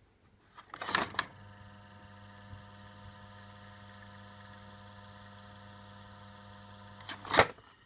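1984 Daiken EK-3020D ventilation fan switched on with a pair of sharp clicks about a second in, its motor running with a steady hum for about six seconds, then switched off with another pair of loud clicks near the end.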